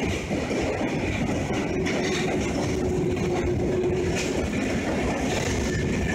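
Train passing close by, its wheels running steadily on the rails.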